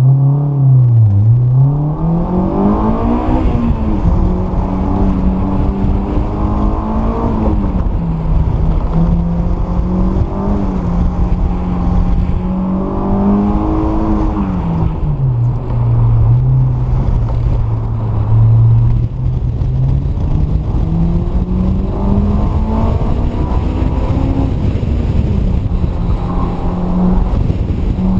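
Honda S2000's four-cylinder engine through a T1R aftermarket exhaust, driven hard on an autocross course: the engine note climbs and falls in pitch again and again as the car accelerates, shifts and lifts, holding steady for a few seconds between changes.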